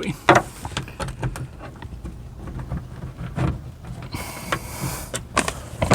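Small scattered clicks and knocks of metal and plastic parts being handled inside a car door as a latch assembly is shifted and a bolt threaded in, with a short rustle about four seconds in.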